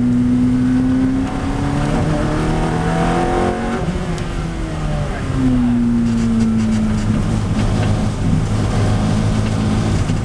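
Ferrari F430's 4.3-litre V8 heard from inside the cabin, running at moderate speed through corners. Its note changes about a second in, with rising tones around two to four seconds, then falls steadily from about five and a half seconds as the car slows.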